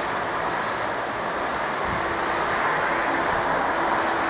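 Steady rushing outdoor background noise, with a faint low hum joining in about halfway through.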